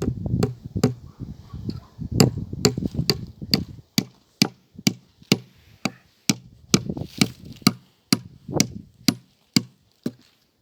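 A hand tool striking hard again and again, about two sharp blows a second, each with a dull thud: hammering or chopping while building a garden bed.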